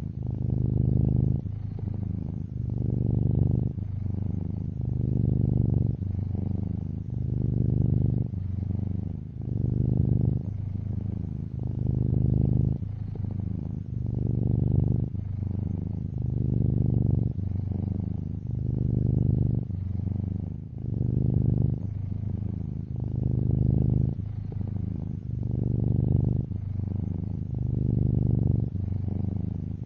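Domestic cat purring steadily, the purr swelling and easing about every two seconds as the cat breathes in and out.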